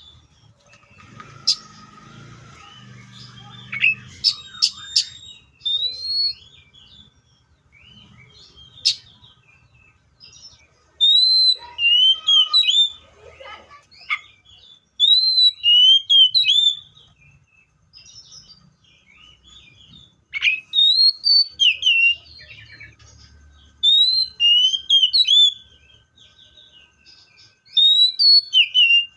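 Seychelles magpie-robin singing: loud, clear whistled notes that sweep up and down, given in bursts of several phrases with short pauses between.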